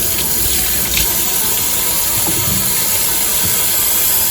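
Water running steadily from a KVK MYM200-series single-lever kitchen mixer faucet into the sink, the hot water now coming through.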